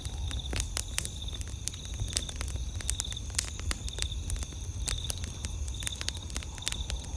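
Wood campfire crackling, with many sharp pops at irregular moments. A high, pulsing chirp of night insects runs steadily underneath.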